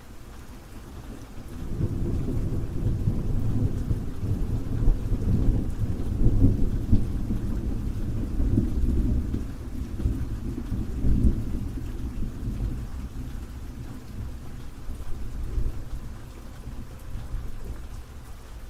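Steady rain with a long roll of thunder that swells about two seconds in, peaks in the middle and slowly fades away.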